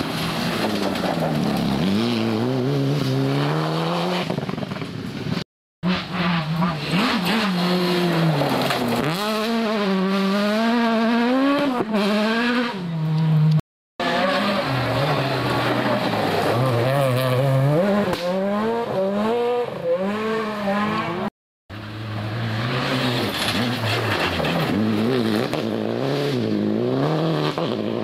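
Rally cars at speed on a gravel stage, engines revving hard and rising and falling in pitch through gear changes as they pass. The sound breaks off abruptly three times between four short takes.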